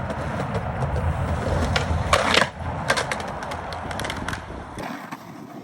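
Skateboard wheels rolling with a steady rumble and scattered clacks, and a short scrape of the board about two seconds in. The rumble drops away near the end.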